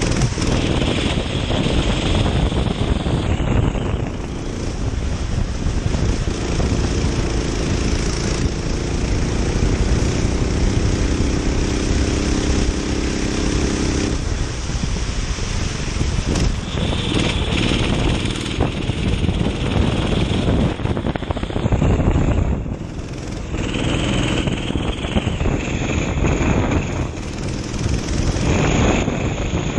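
Racing kart's engine running at speed, its revs rising and falling through the laps, under wind and spray noise on the onboard microphone.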